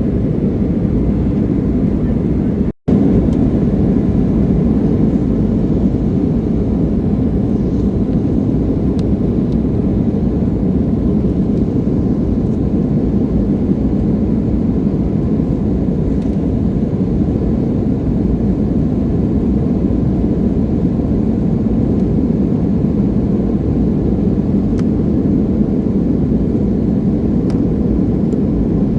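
Steady low rumble of jet engine and airflow noise inside the cabin of an Embraer E175 regional jet with twin turbofans. The sound cuts out for an instant about three seconds in.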